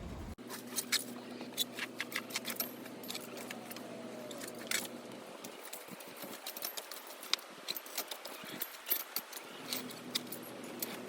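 Chickens scratching and pecking at the ground and litter, making many irregular light clicks and scratches.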